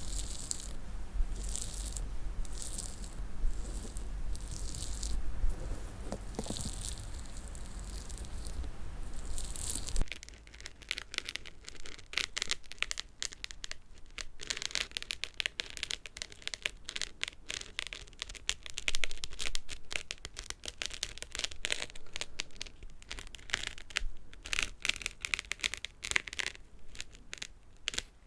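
Close-miked ASMR fingernail tapping and handling of small hard objects. Slow, regular strokes over a low rumble switch about ten seconds in to fast, dense, crisp tapping.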